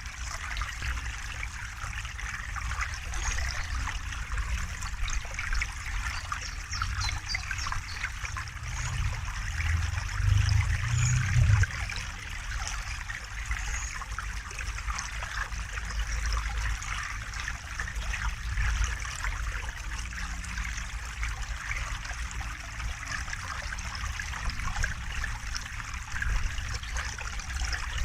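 River water flowing and trickling steadily, with a low rumble underneath that swells for a couple of seconds about ten seconds in.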